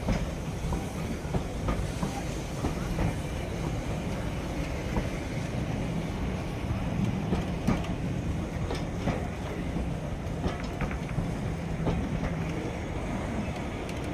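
Maroon LMS passenger coaches rolling slowly past along a station platform: a steady low rumble of wheels on rail with a hum and scattered clicks.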